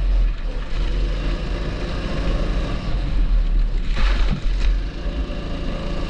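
270cc kart engine running steadily on track, with a brief rush of hissing noise about four seconds in.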